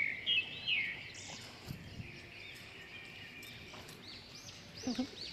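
Small birds chirping, a string of short high chirps over quiet outdoor background, with a brief lower sound near the end.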